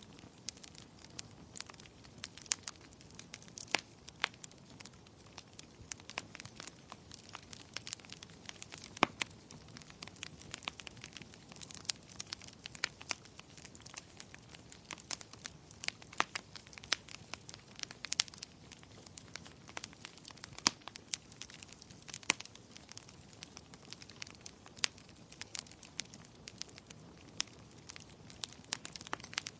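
Wood fire burning in a fireplace, crackling: frequent sharp irregular pops and snaps over a low steady hiss of the flames.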